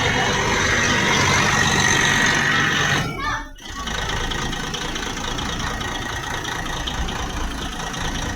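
Bus diesel engine running steadily, with a short break about three seconds in, after which a low engine rumble carries on.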